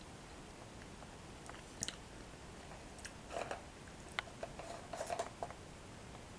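Close-miked chewing of crunchy toasted breadsticks with cocoa cream. Scattered soft crunches and moist mouth clicks come in a few small clusters.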